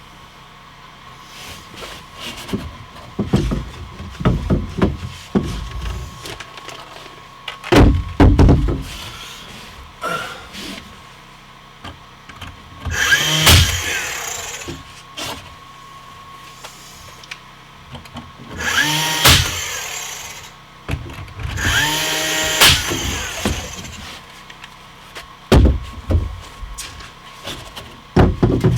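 Power drill running in three short bursts, spinning up at the start of each, mixed with knocks and bumps of wood being handled.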